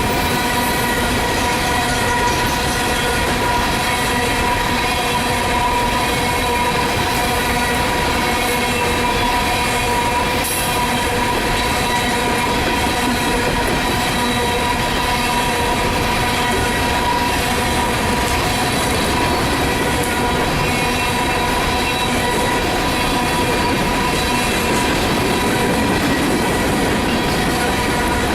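A long train of empty coal cars rolling past, its wheels giving a steady, continuous squeal over the rumble and clickety-clack of the wheels on the rail.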